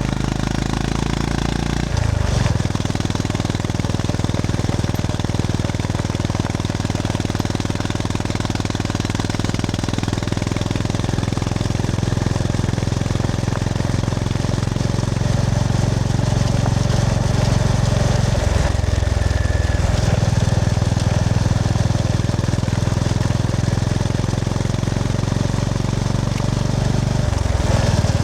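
Honda GB350S's air-cooled single-cylinder engine running under way, with wind rush over it. The engine note steps abruptly about two seconds in, again around eighteen seconds, and once more near the end.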